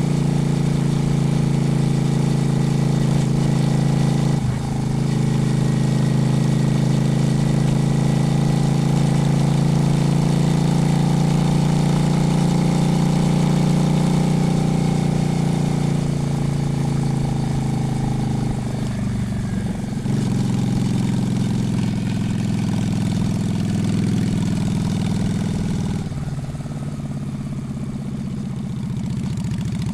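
Honda Shadow motorcycle's V-twin engine running on the move, its note dipping briefly about four seconds in and shifting again midway. Near the end it runs quieter, as the bike slows.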